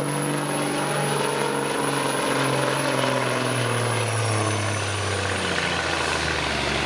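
Diesel engine of a pulling vehicle labouring against the sled, its note dropping steadily over about five seconds as it bogs down and the run comes to a stop.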